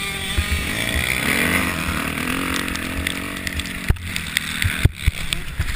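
Motocross bike engines revving, the pitch climbing and falling a second or two in, over a rumbling low-end noise with scattered knocks.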